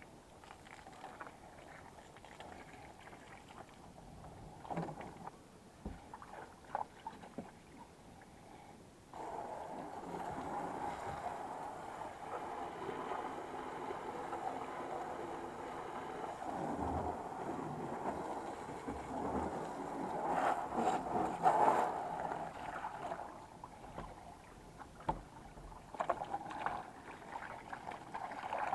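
A motor starts suddenly about nine seconds in and runs steadily with a humming tone for about fourteen seconds, then drops away; scattered knocks come before and after it.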